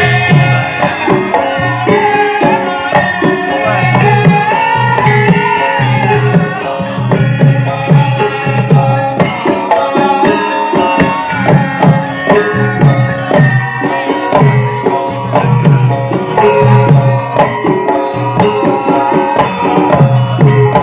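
Javanese gamelan music for lengger mask dance: the ensemble plays steadily over a busy kendang hand-drum pattern, with a bending melodic line over it for the first several seconds.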